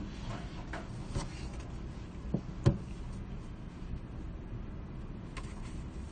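Library room ambience: a steady low rumble with scattered small knocks and clicks. The loudest is a sharp knock about two and a half seconds in.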